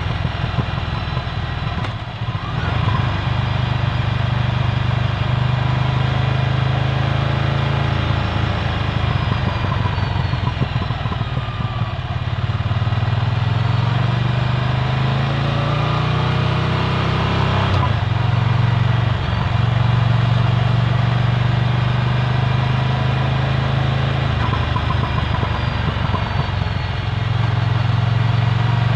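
Ducati Scrambler Full Throttle's air-cooled L-twin running through a Termignoni exhaust while riding, a steady engine note with the revs rising and falling a few times through the middle.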